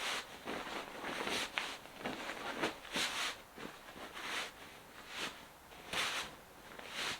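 Irregular soft rustles and light knocks of things being handled, about one a second.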